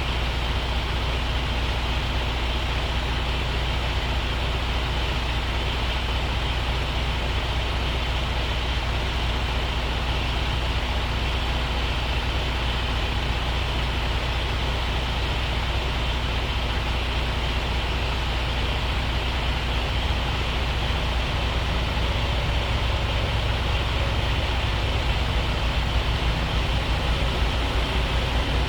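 Truck diesel engine running steadily with a deep, even hum, getting a little louder over the last few seconds.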